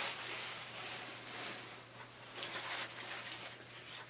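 Faint rustling of paper and plastic packaging being handled, with a few soft crinkles about halfway through.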